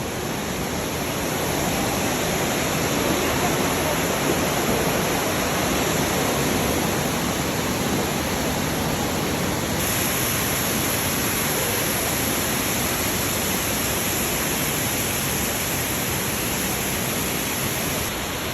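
Waterfall rushing steadily: an even, continuous roar of falling water in a stone gorge.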